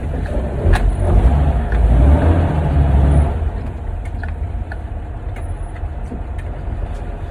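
Truck engine running under load as it pulls in, then easing off about three seconds in to a steady, quieter idle.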